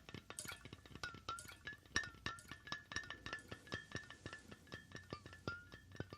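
Fingers tapping quickly and unevenly on a hard object, several taps a second, each tap leaving a short bright ringing tone.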